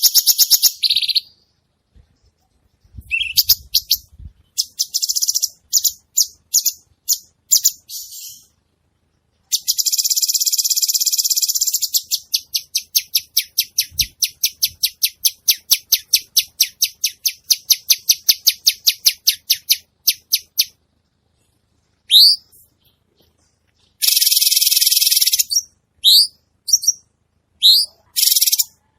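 Cucak cungkok singing hard (gacor): loud, high bursts of rapid trilled notes, a long run of repeated notes at about four a second through the middle, and short rising whistled notes near the end.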